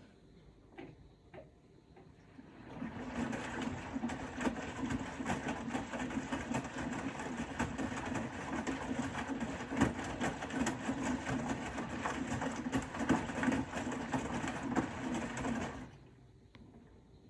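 Bosch Serie 4 front-loading washing machine turning its drum in a wash cycle: the motor hums and the laundry tumbles with a clatter of small knocks. It starts after a couple of faint clicks, runs for about thirteen seconds and stops.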